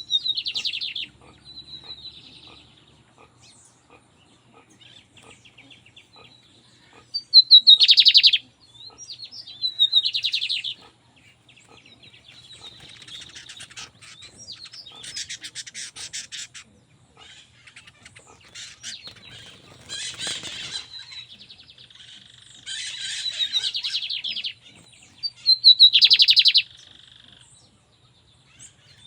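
Lined seedeater (bigodinho) singing: a string of high, rapidly trilled phrases, several of them loud and about a second long, with softer twittering phrases in between.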